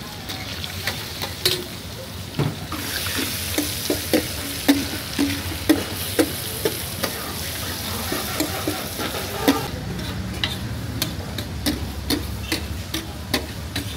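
Liver pieces sizzling in hot oil on a large flat steel tawa griddle, with a metal spatula clicking and scraping on the steel. The sizzle rises about three seconds in and drops back near ten seconds, after which sharp spatula taps on the griddle dominate.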